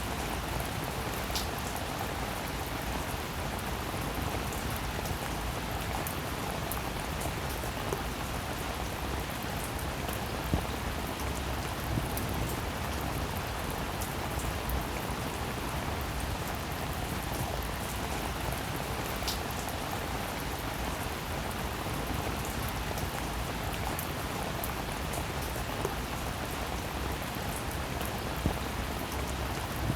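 Steady rain falling, an even hiss of drops, with a few sharper single drops standing out now and then.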